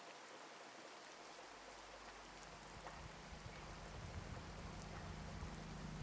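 Faint steady rain pattering, an even hiss with scattered small drop ticks. A low steady hum grows in from about two seconds in.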